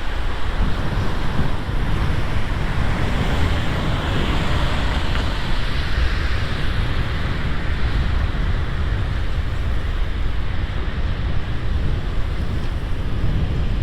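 Wind buffeting the microphone while riding a bicycle: a steady, loud rushing noise, heaviest and gustiest in the low end.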